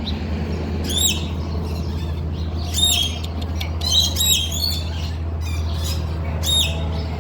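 Birds giving short, high-pitched squawking calls, about five of them spaced a second or two apart, over a steady low hum.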